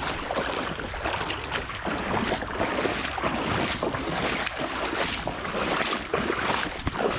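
Irregular sloshing and swishing of water as legs wade through deep swamp water, with wind buffeting the microphone.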